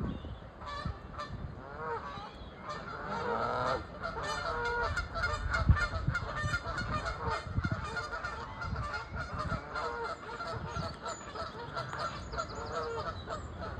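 Several Canada geese honking, many calls overlapping, the calling growing dense from about three seconds in.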